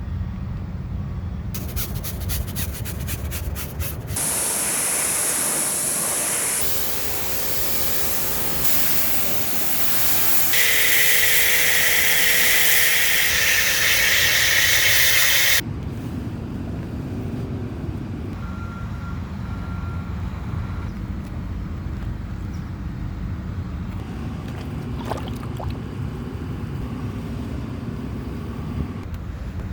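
Car-washing sounds: loud spraying hiss of water or foam in several abrupt stretches, the loudest cutting off suddenly about halfway through. A steady low rumble follows.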